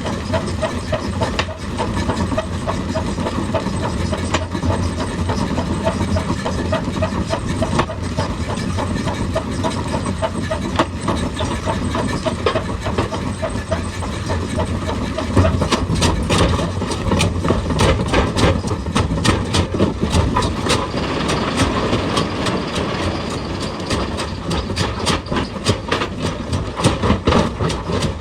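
Heavy excavator engine running, with a clatter of rapid sharp knocks that grows denser about halfway through, as rock is worked and broken.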